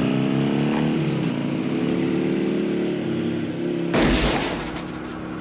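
A motor vehicle engine cuts in suddenly and runs loudly at fairly steady high revs in a chase-scene soundtrack. About four seconds in, a loud, sudden burst of noise lasts about a second.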